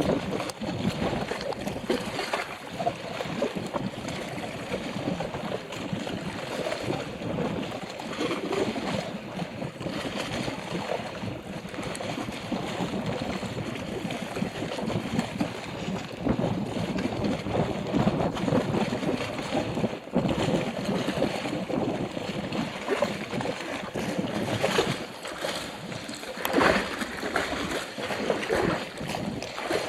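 Strong gusty wind buffeting the microphone over choppy lake water lapping and splashing, with louder gusts about 25 and 27 seconds in.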